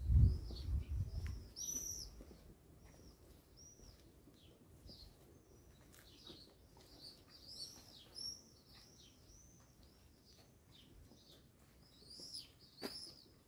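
Small birds chirping again and again in short, high, arching notes. A low rumble is loudest in the first two seconds, and there is a single sharp knock near the end.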